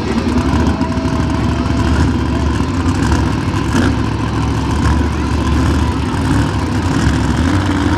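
Monster truck engines running loudly and steadily, idling and revving at the start of a race.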